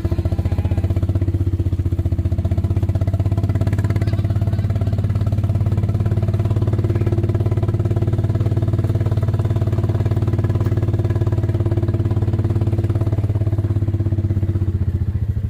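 A motor vehicle's engine idling steadily close by, with an even, rapid firing pulse.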